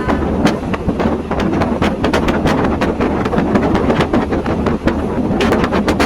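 A passenger train running along the track: a steady low rumble with many sharp rattles and clicks from the wheels and carriage, plus wind noise on the microphone.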